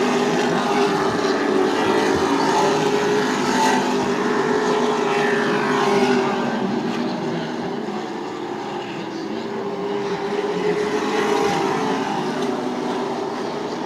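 Super Truck race engines running at speed around a short oval, a steady drone that eases off about eight seconds in and builds again.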